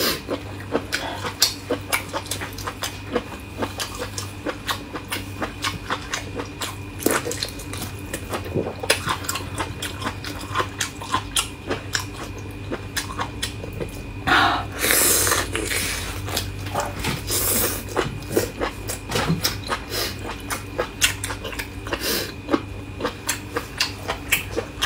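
Close-miked, wet chewing and biting of beef tripe (omasum), heard as many short crunchy clicks and squishes. About halfway through there is a louder rush of noise lasting a couple of seconds. A steady low hum runs underneath.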